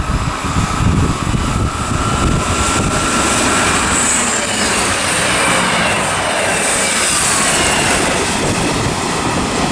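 A pair of Class 159 diesel multiple units passing through the station at speed: a loud, steady rush and rumble of wheels on the rails and running gear, with a faint thin whine in the first few seconds.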